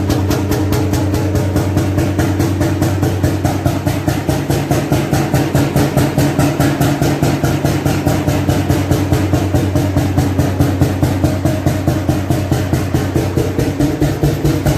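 90-year-old 35 hp single-cylinder oil engine running steadily, with an even beat of about five firing pulses a second.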